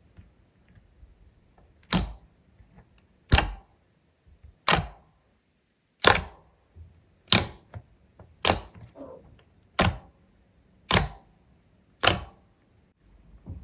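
Slime being pressed or poked over and over, each press giving a sharp crackling pop. There are nine pops, about one every 1.2 seconds.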